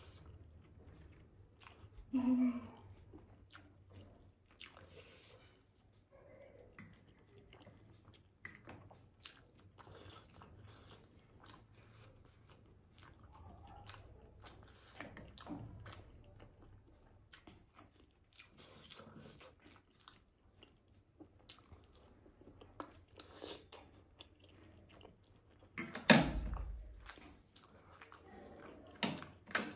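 Close-miked eating of steamed momos: soft chewing and wet mouth sounds with small clicks of a fork against the plate. A single loud knock comes near the end.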